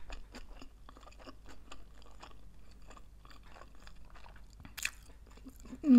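Close-miked chewing of vegetarian sushi rolls: soft, moist mouth clicks about three or four times a second, with one sharper click about five seconds in.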